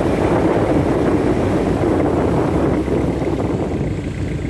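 Inboard engine of a võ lãi speedboat running steadily while under way, with wind on the microphone.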